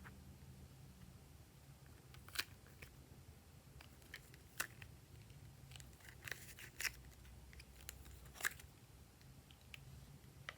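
Glossy slime being handled by hand, giving scattered small clicks and pops, about five of them louder than the rest, over a quiet background.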